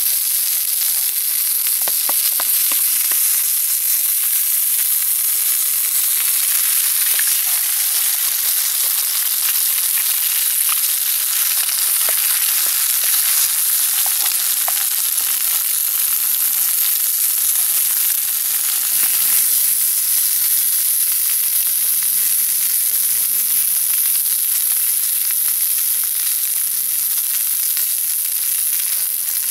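Sausages, tomatoes, black pudding and a freshly added egg frying in a pan over a campfire: a steady, high sizzle, with a few light clicks in the first few seconds.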